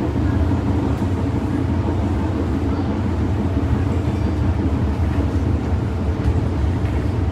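MTR Disneyland Resort Line M-Train running between stations, heard from on board: a steady low rumble of wheels on track and running gear at an even level.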